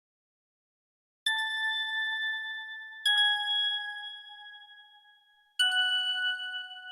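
Three bell-like chime notes struck one after another, about a second in, near the middle and near the end, each a little lower in pitch than the one before and each ringing out and fading.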